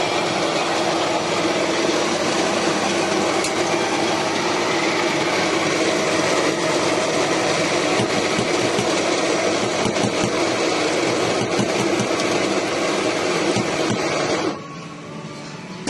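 Commercial coffee machine running: a steady mechanical hum under a hiss, which cuts off suddenly near the end.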